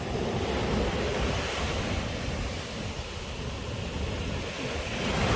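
Steady rushing noise of wind and water with a low rumble, with wind buffeting the microphone.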